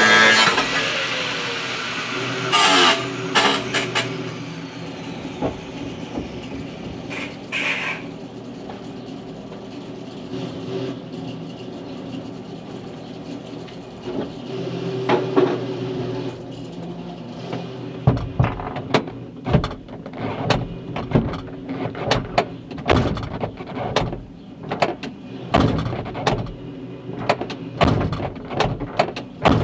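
Workshop metalworking noise: a power tool winding down at the very start, then a steady machine hum with scattered knocks. From about eighteen seconds in come a run of sharp, irregular knocks on metal.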